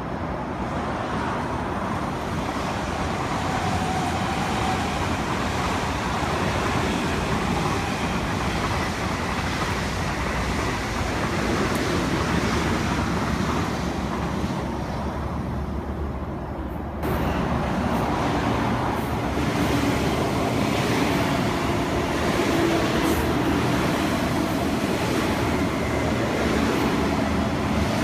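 East Rail Line electric multiple unit trains passing on the line below: a steady rumble of wheels on rails. About seventeen seconds in the sound cuts abruptly to a slightly louder pass with faint steady tones.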